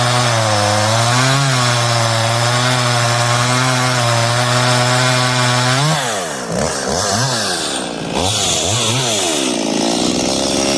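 Stihl MS192T top-handle two-stroke chainsaw running at a steady high speed through a test cut for about six seconds, then the throttle is released and blipped several times, the engine speed falling and rising again.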